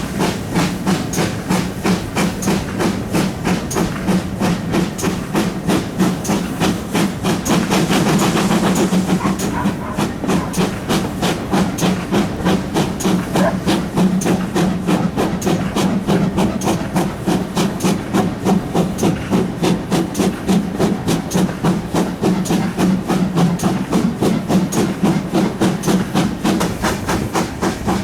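Steam locomotive 7820 Dinmore Manor, a GWR Manor-class 4-6-0, working hard with a loud, rapid, steady rhythm of exhaust beats over a continuous steam hiss.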